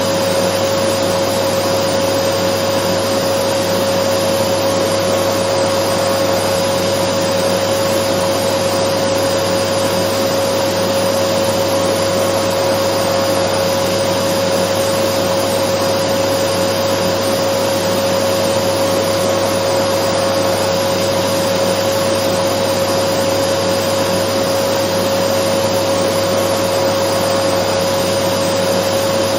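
Dyson vacuum cleaner running steadily: an even rushing noise with a steady whine on top, unchanging in pitch and level.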